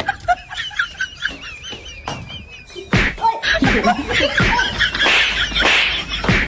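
A chicken squawking while people try to catch it, followed by a louder, noisy commotion with laughter; the sound cuts off abruptly at the end.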